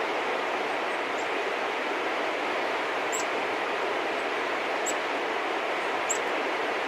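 Small birds giving short, high single chirps, a faint one about a second in and three clearer ones later, over a steady rushing background noise.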